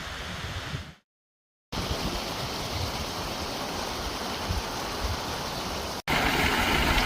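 Mountain stream water rushing steadily over rocks. The sound drops out completely for under a second about a second in, and comes back louder after a cut near the end.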